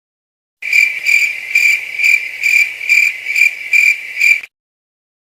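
Crickets sound effect: cricket chirping as a high, steady trill that pulses about twice a second, starting about half a second in and stopping shortly before the end.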